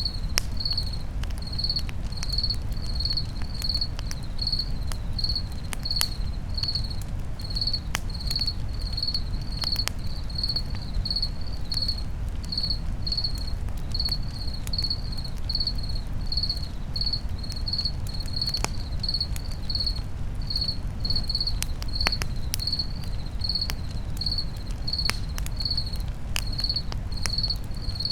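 Cricket chirping steadily, about two high chirps a second, over a crackling campfire with scattered sharp pops and a steady low rumble.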